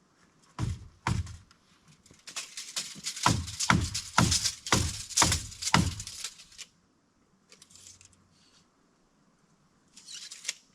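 Nails being driven into a wooden board by hand: two blows, then a quick run of about nine blows, each with a brief ring.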